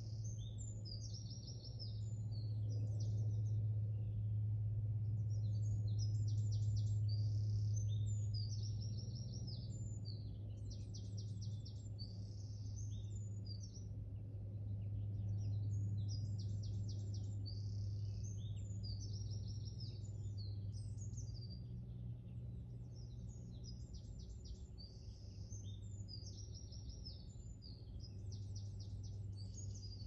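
Songbirds singing, repeating phrases of quick, high notes, over a steady low rumble.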